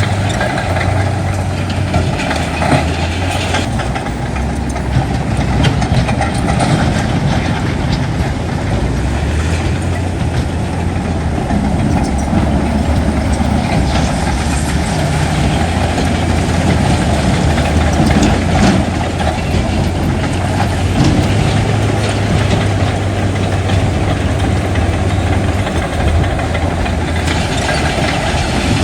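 Heavy diesel engine of an earthmoving machine, such as a bulldozer or dump truck, running steadily with a low drone that shifts in pitch now and then, with a few knocks and clanks over it.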